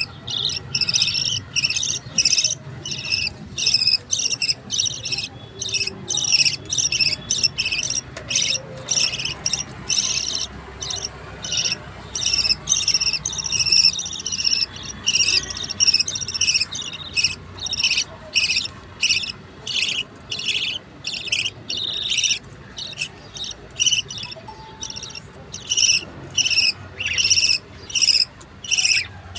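Budgerigar chicks begging to be fed: a long run of short, high chirps repeated about twice a second, with a few brief pauses.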